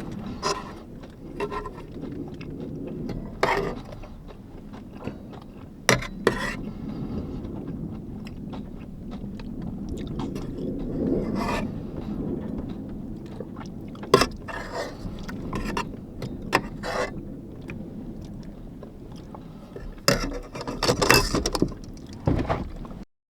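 Scattered clicks, knocks and scrapes of small objects being handled, over a steady low rumble, with a busier burst of handling about twenty seconds in.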